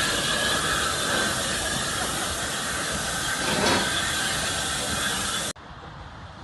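Steam locomotive hissing steam, with train running noise, close by. It cuts off suddenly about five and a half seconds in, leaving a much quieter outdoor background.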